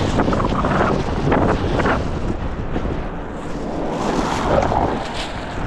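Strong gusty wind blasting across the microphone: a loud, low rumble that swells and eases with the gusts.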